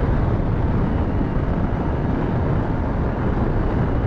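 Steady rush of wind and engine and road noise from a Yamaha R15 motorcycle riding at speed, heard on the rider's action camera, with wind buffeting the microphone.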